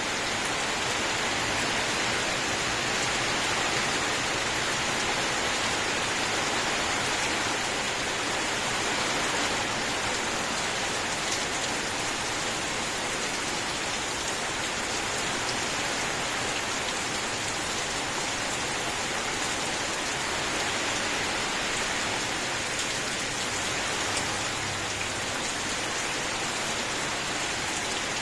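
Steady heavy rainfall, an even hiss of rain falling on surfaces with scattered individual drop ticks.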